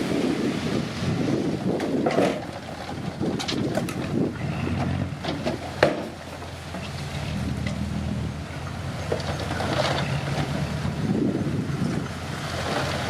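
Komatsu D50P bulldozer's diesel engine running, with a few sharp clanks, the loudest about six seconds in. Wind buffets the microphone.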